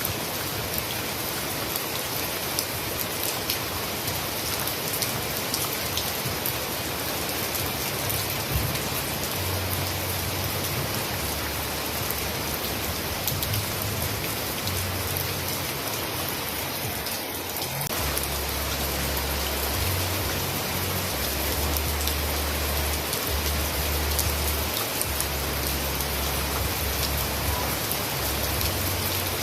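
Steady rain falling, a dense even hiss with scattered individual drop ticks. A low rumble comes and goes underneath, more steadily in the second half.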